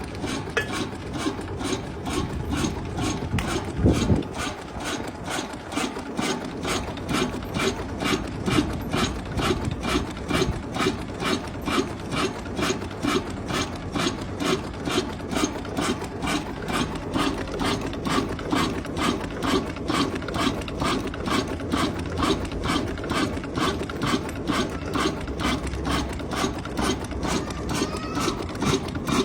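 Old black diesel engine running at a slow, steady speed, its firing strokes coming in an even beat of about two to three a second, with one louder knock about four seconds in.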